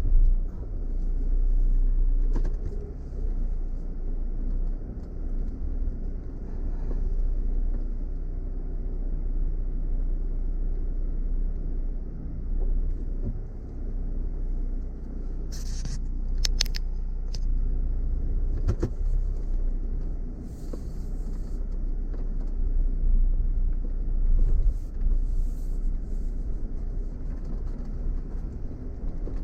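Car crawling over a rocky off-road track: a steady low engine and tyre rumble, with a few sharp knocks and clicks from stones a little past halfway.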